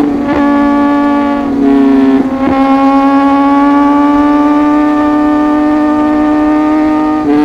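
Inline-four superbike engine held at high revs under load, its pitch climbing slowly, with two brief breaks for quick gear changes, one just after the start and one about two and a half seconds in.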